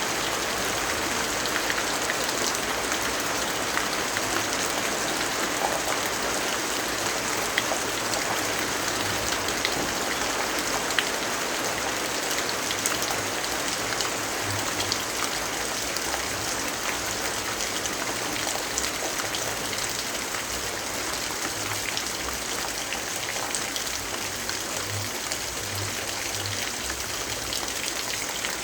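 Steady rainfall, an even hiss with scattered sharp drip ticks.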